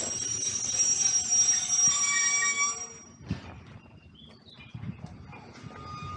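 Rhaetian Railway train's wheels squealing on the rails, a shrill high-pitched squeal with several steady tones that stops about three seconds in, leaving quieter rolling noise with scattered clicks.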